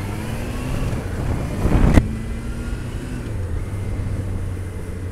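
Motorcycle engine pulling away, its pitch rising over the first two seconds, with a loud whooshing rush peaking about two seconds in, then running steadily at a low hum.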